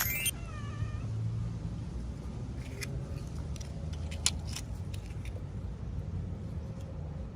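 A cat meows once, briefly, just after the start. A few light clicks and rattles of small plastic toy packaging being handled follow in the middle, over a steady low rumble.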